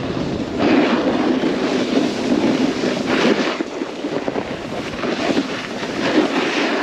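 Snowboard sliding and carving over snow: a loud rushing scrape that swells and eases with each turn, mixed with wind buffeting the camera's microphone.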